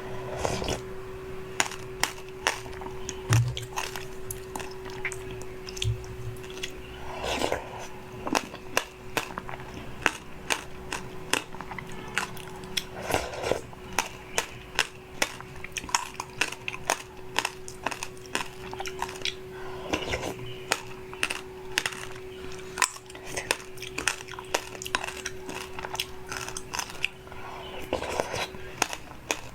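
Close-up eating and tableware sounds: frequent crisp clicks and crunches. A steady hum runs underneath and stops near the end.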